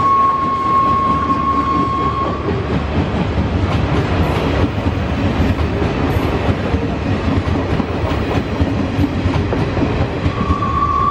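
Passenger coaches of a train rolling past close by: a steady rumble of steel wheels on the rails with some clickety-clack over the joints. A steady high whine runs through the first two seconds and comes back near the end.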